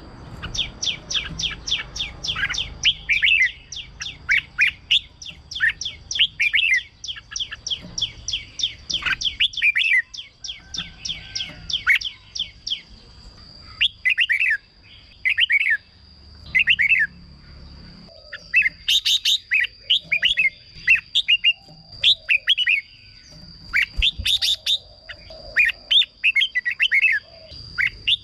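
Red-whiskered bulbul singing: rapid runs of short, bright chirping notes, several a second, with a brief lull partway through.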